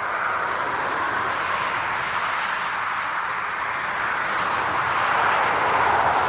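Jet airliner engine noise: a steady, loud rushing sound that swells slightly after about four seconds.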